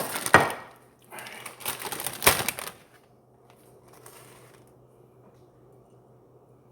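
Crushed crunchy hot Cheetos crackling and clattering as they are handled and pressed onto chicken in a dish, in a few short bursts over about three seconds; then only a faint low hum.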